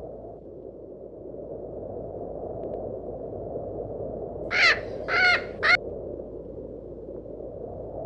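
Northern gannet giving three short calls in quick succession about halfway through, over a steady rushing background noise.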